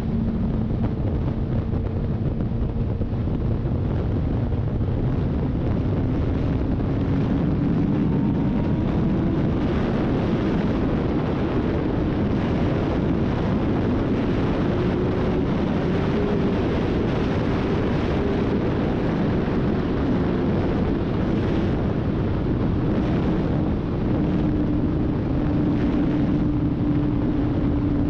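Motorcycle riding at speed: a steady rush of wind over the microphone with an engine drone underneath that rises slowly in pitch.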